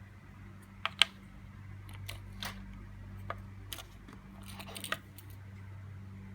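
Sharp plastic clicks and snaps from handling a car key fob while changing its battery. About eight irregular clicks, the loudest about a second in and a quick cluster near the end, over a steady low electrical hum.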